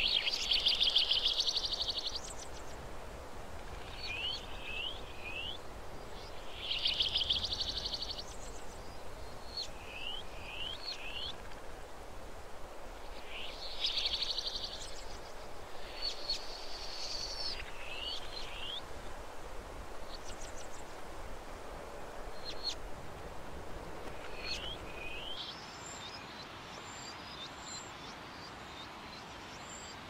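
Birds calling in a forest soundscape: a repeated trilled call comes every several seconds, alternating with quick runs of three short falling notes, over steady background noise. The low part of the background rumble drops away near the end.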